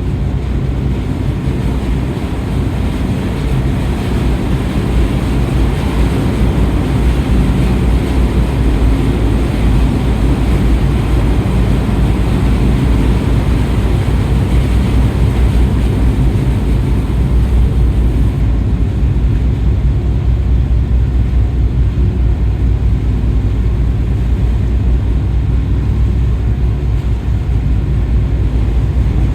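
Car ferry's engines and propulsion giving a loud, steady low rumble with a deep hum while the ship manoeuvres alongside the pier to berth.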